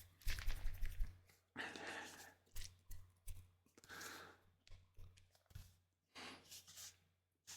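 Waterproofing liquid worked in its bottle close to the microphone in a series of short, irregular hissy liquid bursts, the liquid getting foamy inside.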